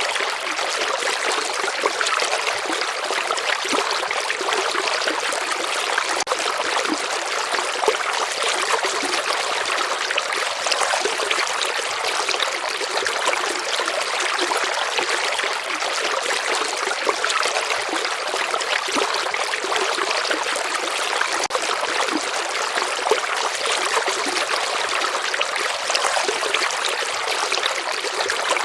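A shallow stream flowing steadily, with a constant trickling and splashing and little deep rumble.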